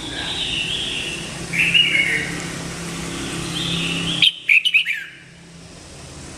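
Red-whiskered bulbul singing: three short warbled phrases. A quick cluster of sharp clicks comes about four seconds in, over a steady low hum.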